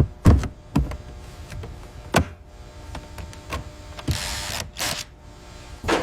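Mechanical assembly sound effects: a series of sharp clicks and clunks, with a short hiss about four seconds in.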